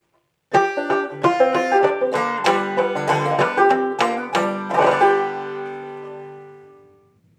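Clawhammer banjo picking a quick phrase of plucked notes. The last note, struck about five seconds in, is left ringing and fades out over about two seconds.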